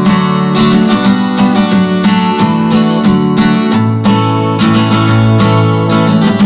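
Music: strummed acoustic guitar with a steady rhythm.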